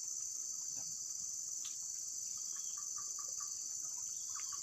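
Steady, high-pitched chorus of night insects, unbroken throughout, with a few faint short ticks in the second half.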